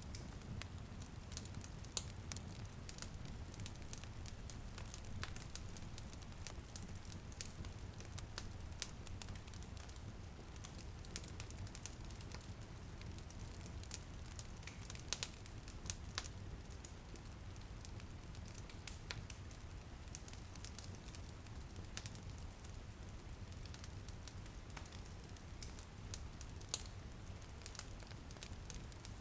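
Wood fire crackling in a fireplace: irregular sharp pops and snaps over a steady low rumble, with light rain pattering on a window underneath.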